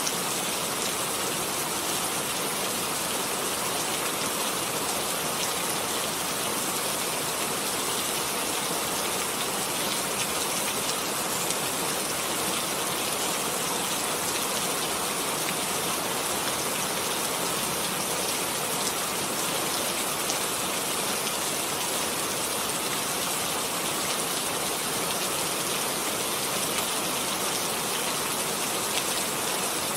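Steady rain falling, an even patter with scattered drop ticks and no change in strength.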